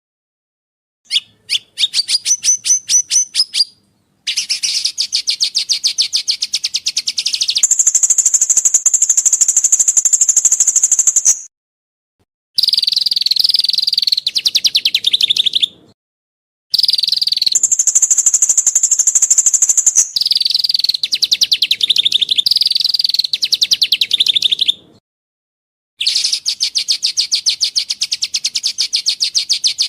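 Songbird song used as a 'materi' training recording for caged birds: long, rapid trills and rattles of fast-repeated high notes, some held at one pitch and some wavering, in phrases of several seconds broken by sudden silent gaps.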